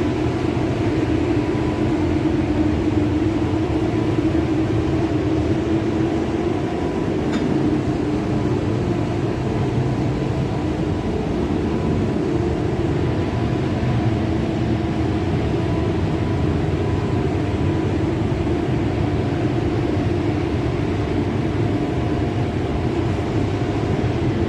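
Steady mechanical drone of a running machine, with a constant hum and no change in pitch or level.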